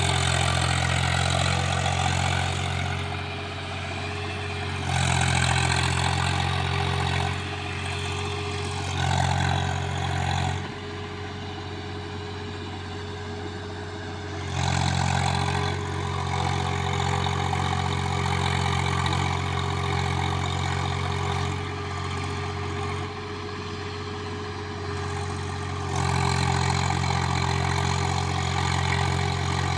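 Tractor's diesel engine running under load, getting louder and quieter several times as the throttle or load changes, with a long quieter stretch near the middle.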